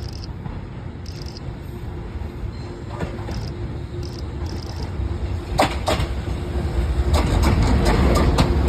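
EMU100 electric train running, its rumble growing steadily louder, with a steady hum. From about halfway through, the wheels knock repeatedly over rail joints and points as the train takes the turnout.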